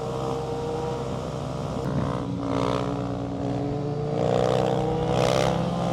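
Sport motorcycle engine running on the road, heard from the rider's seat with wind noise. Its pitch rises as it accelerates from about four seconds in, then drops near the end.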